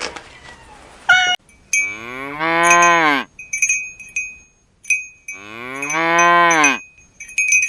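A cow mooing twice, two long low calls that rise and then fall in pitch, while cowbells clink on and off throughout.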